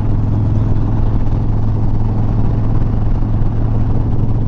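Harley-Davidson Sport Glide's V-twin engine droning steadily at a constant cruising speed, with wind rushing over the rider's microphone.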